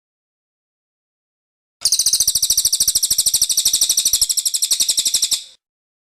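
A cililin singing one fast, high-pitched trill of about a dozen notes a second. It starts abruptly about two seconds in and stops just as suddenly about three and a half seconds later, with dead silence either side, as in an edited song track.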